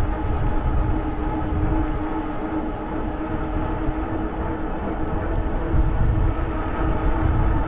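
Electric bike motor whining at a steady pitch while riding, under low wind rumble on the microphone.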